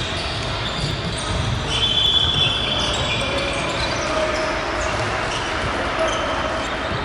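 Basketball game sounds in a gym: a ball bouncing on the court, with scattered voices.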